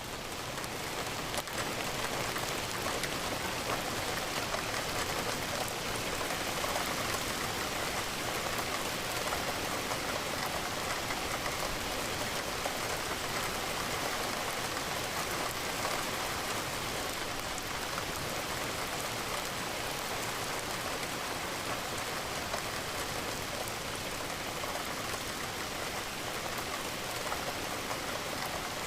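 Steady, even rain falling, with raindrops pattering on a window.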